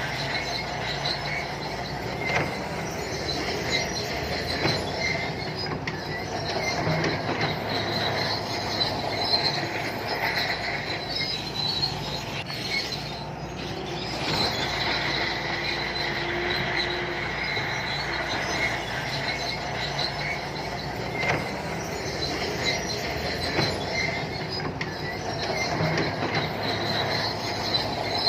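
Shantui crawler bulldozer working: its diesel engine runs steadily under a high squeal from the steel tracks, with occasional clanks.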